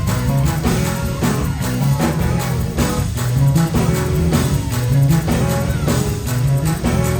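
Live church band playing fast, loud music with drums, bass and electric guitar, the kind of instrumental praise break that accompanies dancing in a gospel service.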